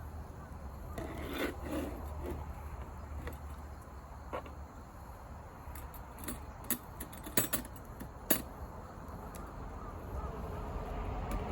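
A few scattered sharp clicks and knocks, like small objects being handled, over a steady low rumble.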